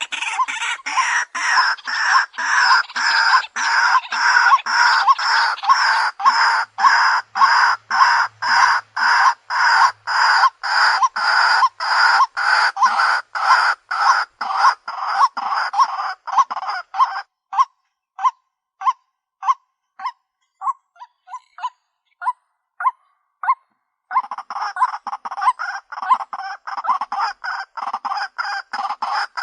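White-breasted waterhen calling in a fast, harsh, croaking series, about two loud calls a second. About two-thirds of the way through the calls thin out to single quieter notes for several seconds, then the full series comes back.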